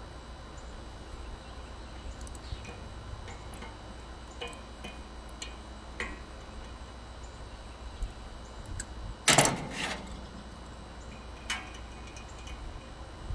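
Scattered light clicks and knocks of hand work on a condenser fan motor install, with one louder rasp lasting about half a second around nine seconds in, over a steady low hum.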